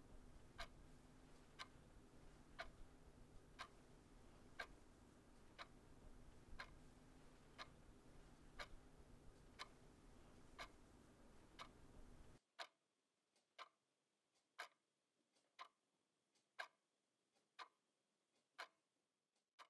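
A clock ticking about once a second over a low room hum. About twelve seconds in, the hum cuts out and the ticks go on alone over near silence.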